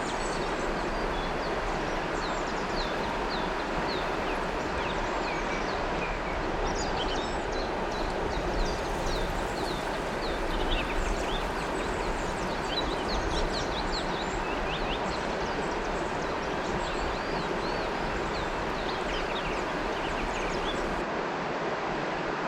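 River water flowing steadily, with many birds giving short, quick chirps over it, thickest in the middle.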